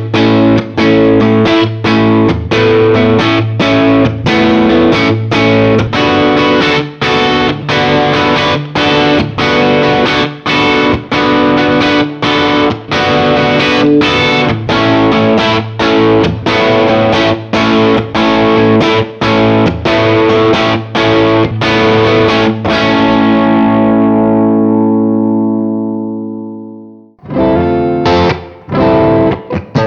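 Overdriven electric guitar (a Gibson Les Paul with PAF-style humbuckers) playing a distorted riff of chord strikes about two a second. Near the end it holds one chord that rings and fades for a few seconds, then stops abruptly, and after a brief gap the riff starts again.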